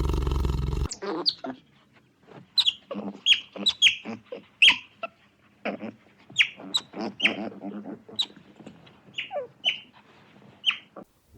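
A loud, sustained sound cuts off suddenly about a second in. It is followed by a quick, irregular series of short, sharp bird calls, each one dropping in pitch.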